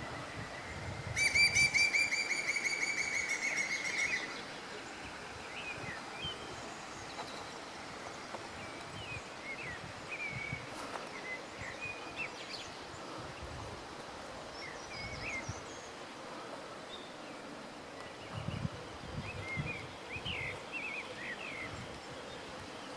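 Wild birds singing: a loud, rapid trill for about three seconds starting a second in, then scattered short chirps and calls. There are low rumbles near the end.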